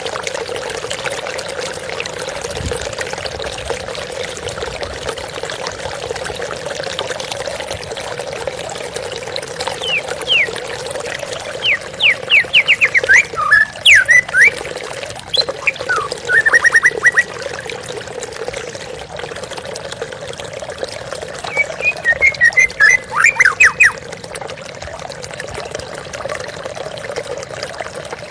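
Water flowing steadily, like a trickling stream. A white-rumped shama sings over it twice, in loud bursts of rapid, sharp descending notes, first about ten seconds in and again a little after twenty seconds.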